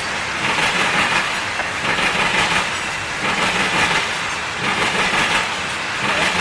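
Loaded coal hopper cars of a freight train rolling past, steel wheels clattering on the rails. The noise swells and fades about every second and a half.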